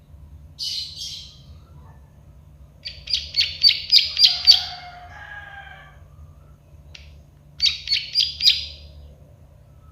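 Plain prinia (prenjak sawah, the 'klik-klik' bird) calling in bursts of rapid, sharp clicking notes, three bursts in all. A fainter, lower warbled phrase follows the second burst, over a steady low hum.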